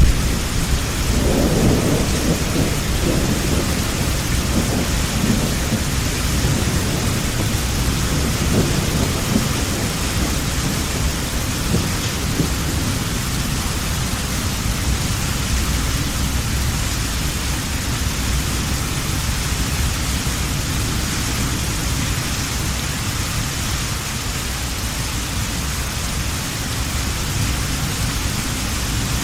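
Steady heavy rain with rolling thunder. The thunder rumbles through the first several seconds and fades out, leaving rain alone.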